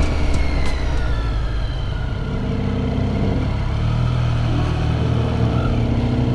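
2014 Triumph Street Triple 675-R engine running, its pitch falling over the first couple of seconds as it slows, then holding steady.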